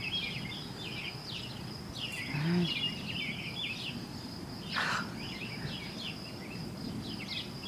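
A steady, distant low roar that seems to come from the whole sky, like continuous far-off thunder, with birds chirping repeatedly and a steady high insect tone. A short low hum sounds about two and a half seconds in, and a brief hiss comes near five seconds.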